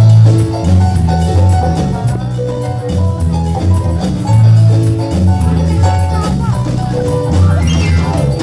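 A campursari band playing a song, with a held bass line under a melody and a steady percussion beat.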